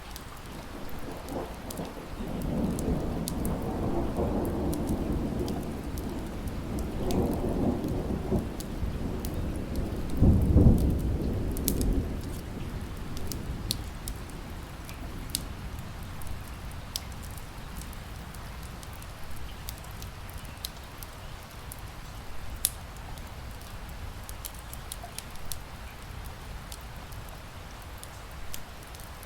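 Rolling thunder rumbles for about ten seconds, loudest about ten seconds in, then fades. Under it, steady rain and the scattered sharp pops of a crackling wood fire.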